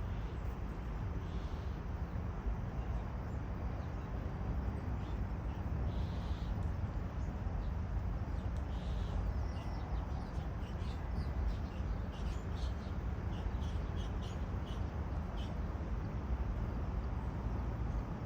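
Outdoor ambience: a steady low rumble with birds calling over it, a few short calls early on and a run of quick high chirps in the second half.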